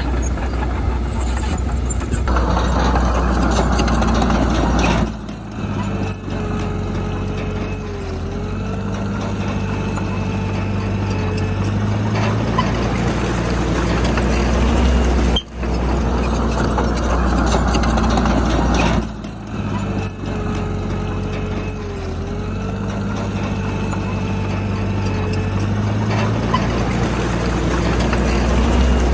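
Heavy diesel engine of earthmoving machinery running and working, its pitch stepping up and down as the load changes. The sound drops out briefly a few times.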